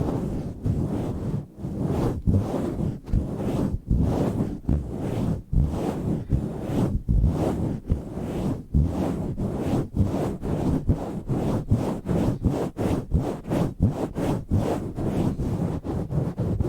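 Microphone cover being rubbed, swirled and pumped by hand right on the microphone: deep, rough rubbing strokes, about two to three a second, quickening in the second half.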